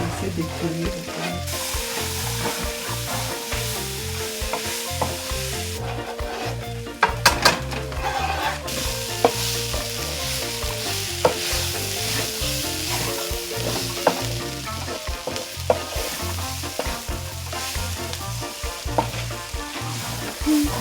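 Cicadas frying in a pan with onion, garlic and dried hot pepper, sizzling steadily while they are stirred, with a utensil clicking sharply against the pan a few times.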